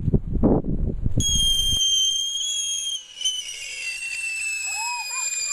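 A loud, high-pitched whistle that starts about a second in and slides slowly down in pitch, dipping briefly around three seconds in, over a rush of noise during the first couple of seconds.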